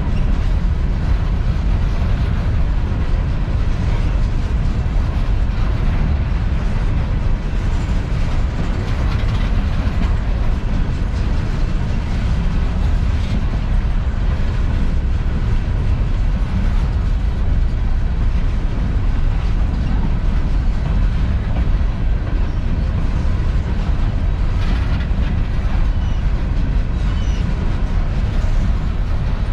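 Empty coal hopper cars of a freight train rolling past on the rails, a steady low rumble of wheels and cars that keeps up without a break.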